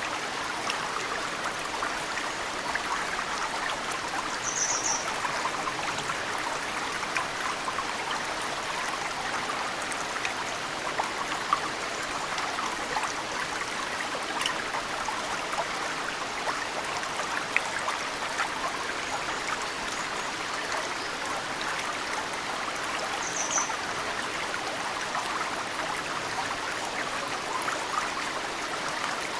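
Mountain stream flowing steadily, with snowmelt dripping off cedar roots into the water in many small splashes. A bird chirps briefly twice, high above the water sound.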